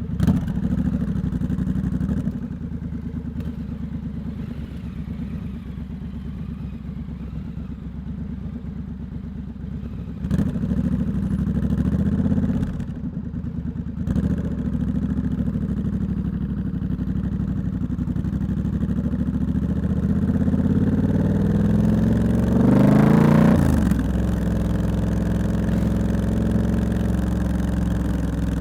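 Triumph Scrambler 1200X's parallel-twin engine running through a loud aftermarket Hitchcox exhaust while riding. The throttle opens briefly about ten seconds in, then the revs climb steadily and drop off sharply a few seconds before the end.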